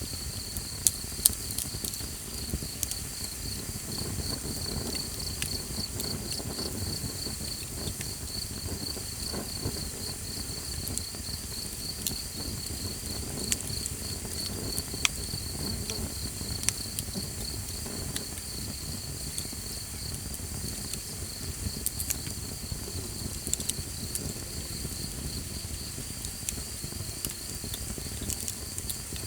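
Small campfire crackling with scattered sharp pops, a couple of louder ones about a second in, over a low rumble. An insect chirps in a fast, even, unbroken trill throughout.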